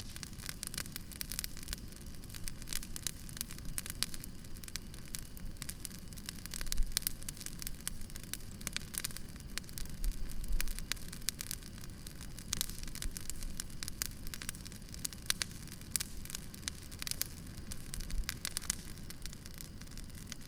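Campfire crackling, with frequent sharp pops and snaps over a steady low hiss; the loudest pop comes about seven seconds in.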